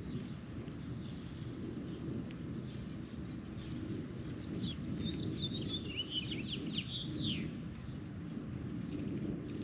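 A bird calls in a quick run of short, falling notes about halfway through, over a steady low outdoor rumble.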